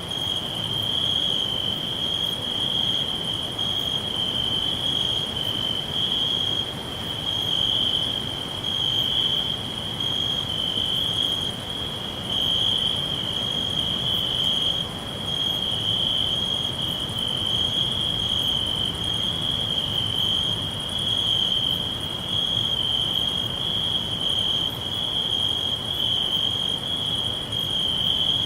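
Crickets chirring: a continuous high trill that pulses gently in strength, over a low rumble of background noise.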